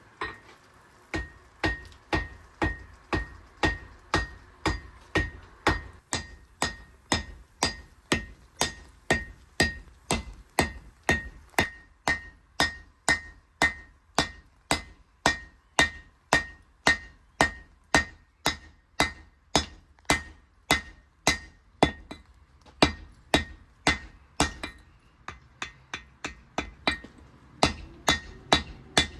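Hand hammer forging a spade drill bit on an anvil: steady blows about two a second, each with a bright metallic ring. The ring fades over the last few seconds.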